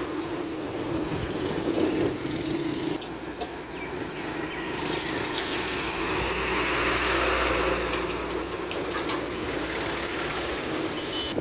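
Engine of a heavily loaded truck running under load: a steady, noisy drone, with a deep low hum that grows louder about two-thirds of the way through.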